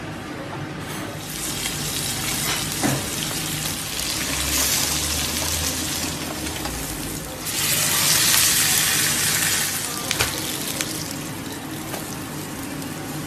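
Food sizzling as it fries in hot oil, a dense hiss that swells louder in the middle, with a few sharp clicks.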